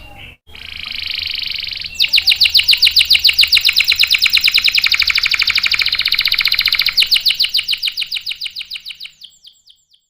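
Domestic canary singing: a short buzzy trill, then long rolls of rapidly repeated notes, about ten a second, which fade out near the end.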